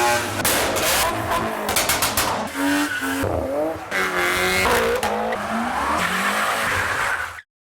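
Modified cars revving hard with tyres squealing, the pitch of the engine and tyre notes sliding up and down. There are several sharp cracks in the first couple of seconds, and the sound cuts off suddenly near the end.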